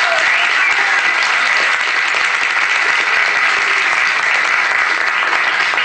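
Studio audience applauding steadily throughout, dense clapping.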